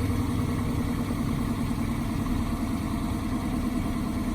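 Dodge Charger R/T's 5.7-litre HEMI V8 idling steadily through its stock exhaust, settling down just after a cold start.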